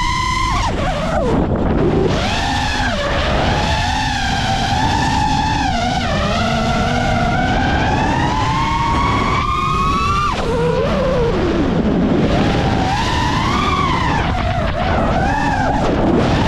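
A 5-inch FPV freestyle quadcopter (iFlight Nazgul5 v3) with its brushless motors and Ethix PB&J props whining as it flies. The pitch rises and falls with the throttle and drops sharply on throttle chops about a second in and again about ten seconds in, over a steady rush of wind.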